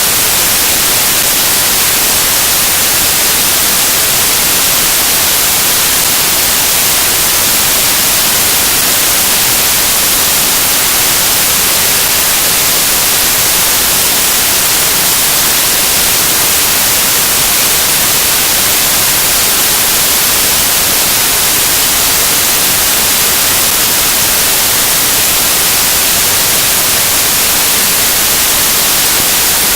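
Loud, steady static hiss with nothing else in it, strongest in the treble and thin in the bass.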